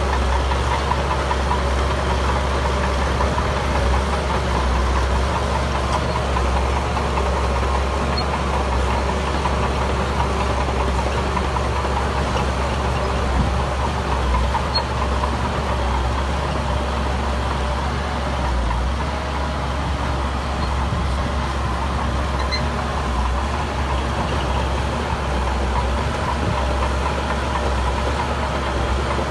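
Heavy construction machinery's diesel engine running steadily, with no pauses or big changes in speed.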